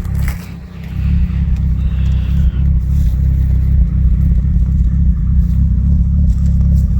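Turbocharged Honda LSVTEC four-cylinder on E85 idling on its own with a steady low exhaust rumble, dipping briefly about half a second in. The owner says it is not happy in the cold and needs a retune.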